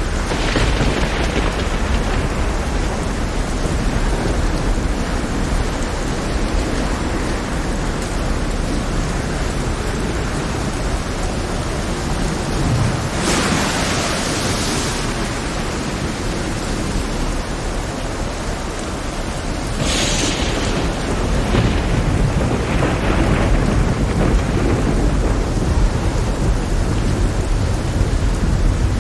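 Heavy rain with low thunder rumbling throughout, and short louder hissing surges about halfway through and again about two-thirds of the way in.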